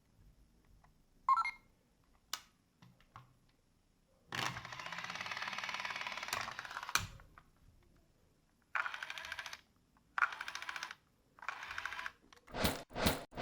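Lego Duplo battery steam train's motor and gearbox running in short stretches with a fast rattling gear noise, the faulty gear sound the train has been making. A few sharp clicks come before it and a few louder knocks near the end.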